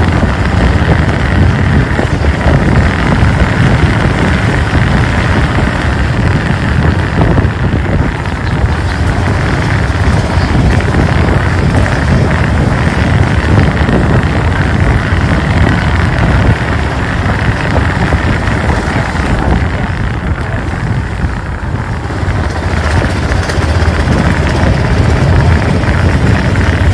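Motorcycle on the move, heard from a camera on the bike or rider: the engine running under a steady rush of wind on the microphone, easing a little about three quarters of the way through.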